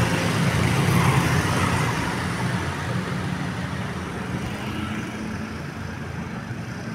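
A bus's diesel engine and tyres passing close by, loudest at first and then fading steadily as it moves away.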